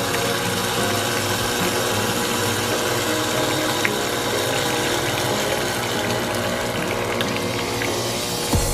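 Breville Barista Express espresso machine's vibratory water pump running steadily with a buzzing hum as it pushes water through the machine, then cutting off with a thump near the end.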